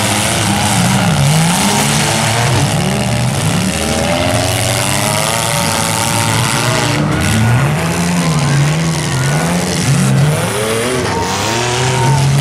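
Several compact demolition derby cars' engines revving up and down at once, their overlapping notes rising and falling over a steady loud din.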